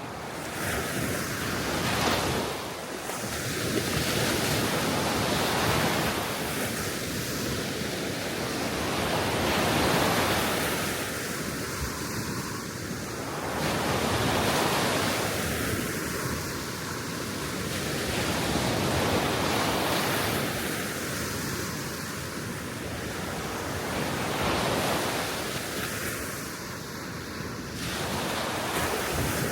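Gentle sea waves washing onto the Baltic shore, the surf swelling and easing every few seconds, with wind.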